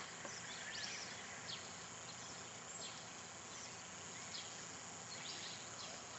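Outdoor ambience: a steady hiss with short, high bird chirps scattered every second or so.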